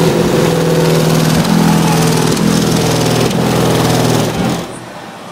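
Car audio subwoofer system playing very loud bass notes during an SPL competition run, the pitch stepping up and down every second or so, then cutting off suddenly about four and a half seconds in.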